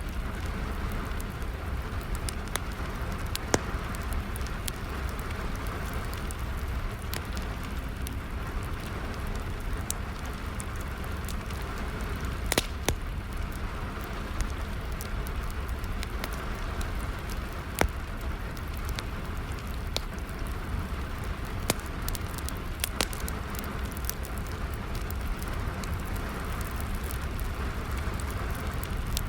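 Steady rain with wood fire crackling: a constant hiss and low rumble, with sharp pops of burning wood scattered through it, the loudest about 3.5, 12.5 and 18 seconds in.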